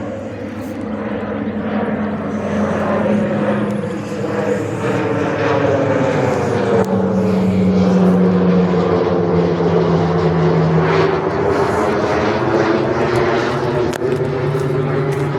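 Pilatus PC-21 turboprop trainer flying past close by. Its propeller and engine sound builds to a peak about eight seconds in, then eases slightly, and its low tones shift in pitch as it passes.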